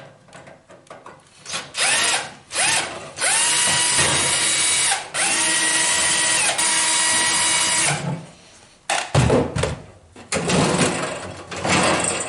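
Power drill-driver backing out the triangle-head screws of a flood-damaged electric heater: a couple of short blips, then two long runs that each spin up to a steady whine, with a brief stop between them. Rougher, irregular short bursts follow near the end.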